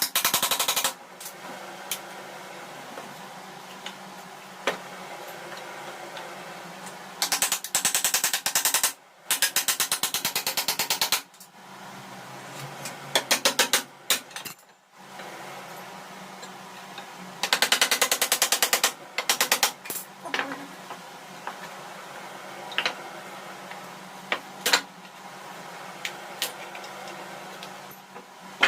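Repeated bursts of rapid, evenly spaced mechanical clicking, each lasting one to four seconds, with scattered single taps and knocks between them over a low steady hum.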